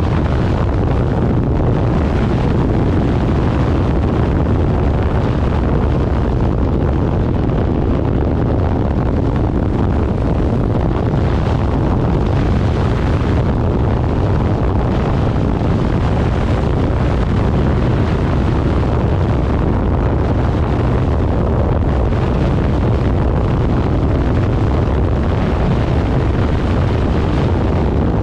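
Steady wind buffeting the microphone of a motorcycle ride at speed, with the bike's engine and road noise running underneath.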